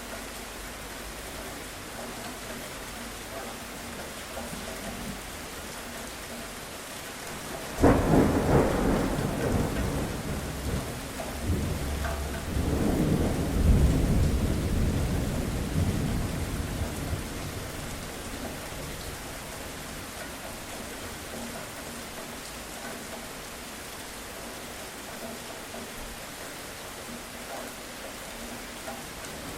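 Steady rainfall with a sudden thunderclap about eight seconds in that rolls into a long low rumble, swells again a few seconds later and fades away; another thunderclap breaks right at the end.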